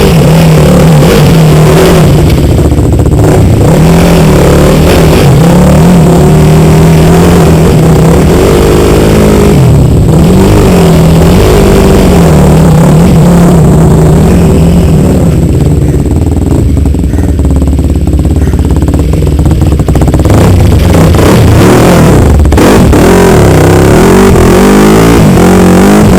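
Dirt bike engine running at near full scale, its pitch rising and falling as the throttle is worked on and off while riding.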